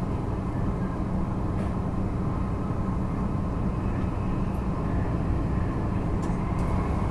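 Taiwan High Speed Rail 700T train running, heard inside the passenger cabin: a steady low rumble and hum, with a few faint clicks about six seconds in.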